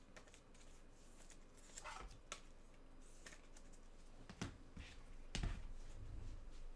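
Trading cards being handled: scattered soft taps and clicks as cards and card holders are moved and set down, with a slightly louder knock about five and a half seconds in.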